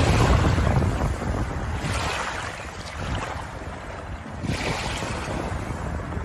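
Ocean waves breaking and washing in, a steady rushing that swells in surges every couple of seconds, loudest at the start.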